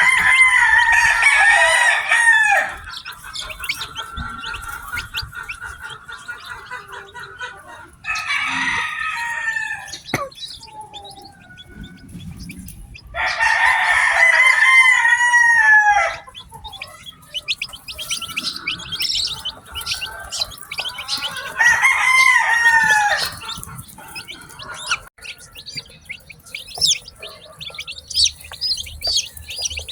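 A rooster crowing four times, each crow a long call of two to three seconds, over the constant high-pitched peeping of newly hatched chicks. The chick peeping grows thicker in the last third.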